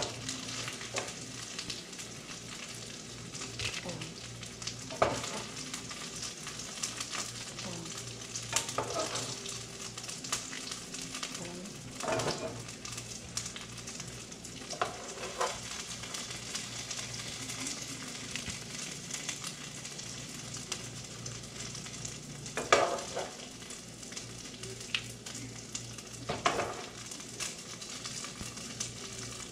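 Breaded turkey pieces sizzling steadily as they fry in a pan, with a few sharp clacks from metal tongs turning and lifting the pieces.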